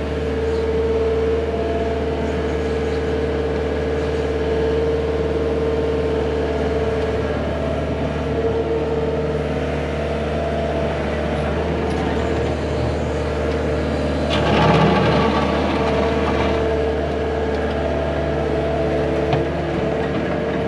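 Diesel engine of an earthmoving machine running steadily under load with a steady whine, working while the water-line trench is backfilled; it gets briefly louder and rougher about two-thirds of the way through.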